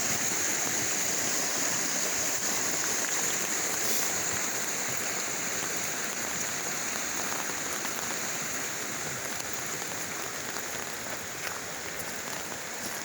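Steady, even hiss of rushing water, fading slightly toward the end.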